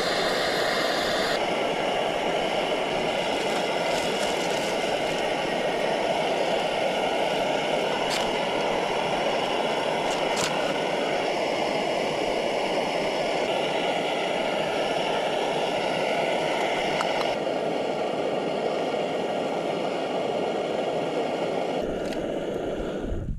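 Steady rushing noise at an even level, with no rhythm or clear pitch.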